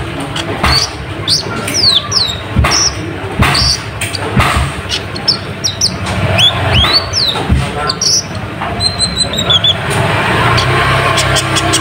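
Konin (kolibri ninja, a sunbird) calling busily, with sharp high chirps and quick sweeping notes mixed with short clicking ticks. About nine seconds in comes a quick run of descending notes. A low hum runs underneath.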